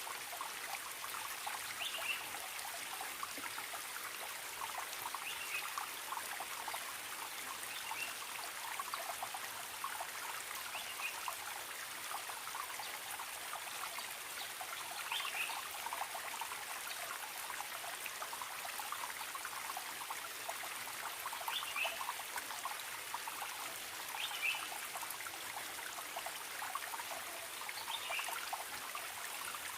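Forest stream trickling and bubbling steadily, with a bird giving short high calls every few seconds.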